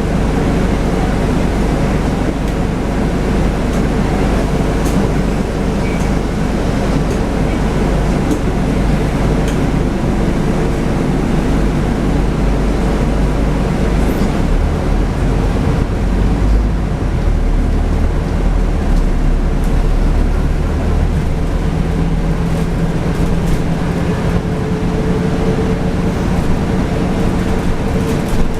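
Scania N250UD double-decker bus running as it drives along: a steady, loud engine rumble with tones whose pitch shifts partway through and again for the last few seconds.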